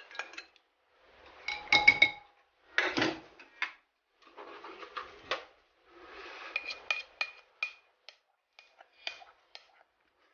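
A spoon scraping and clinking against a mixing bowl while the last of the orange sauce is scooped out over the chicken: irregular short scrapes with several sharp, briefly ringing clinks, most of them in the second half.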